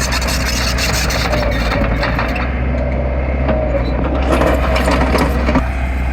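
Heavy earthmoving machine's diesel engine running with a steady low drone. Bursts of clattering and cracking ride over it through the first two seconds and again from about four seconds in, fitting stone or crawler tracks knocking.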